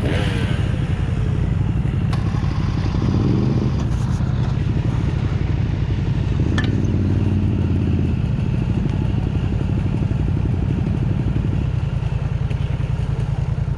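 Dirt bike engine running hard, its throttle swelling a few times and easing off near the end, with a single sharp click about midway.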